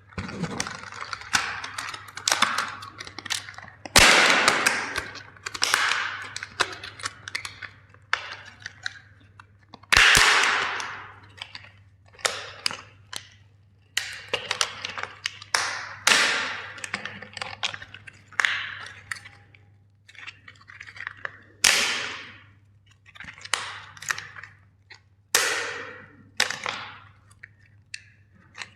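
Plastic toys being crushed: a long series of sharp cracks and snaps of breaking plastic, about one every second or two, the loudest about four and ten seconds in, over a faint steady low hum.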